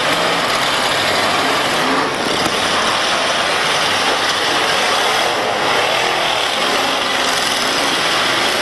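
Demolition derby cars' engines running and revving together, a loud, dense din with engine pitches rising and falling.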